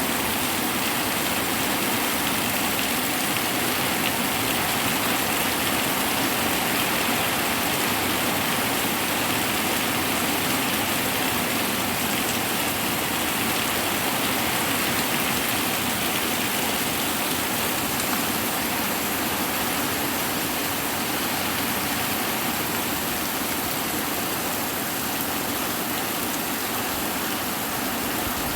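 Hard rain pouring steadily, a constant even hiss with no thunderclap in this stretch.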